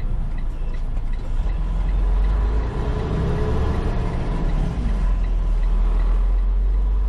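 Semi-truck's engine running, heard from inside the cab, under a steady low rumble of strong wind buffeting the truck. Faint regular ticking comes through, about three times a second.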